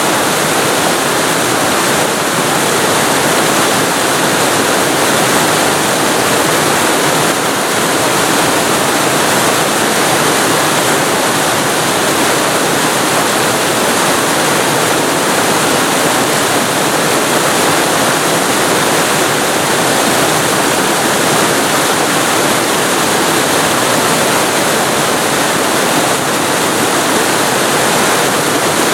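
Waterfall recorded up close: a loud, steady rush of falling water with no change or break.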